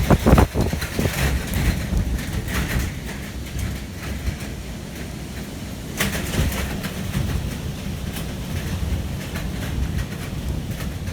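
Storm wind gusting with heavy rain, the gusts buffeting the microphone with a low rumble. There are hard gusts right at the start and another about six seconds in.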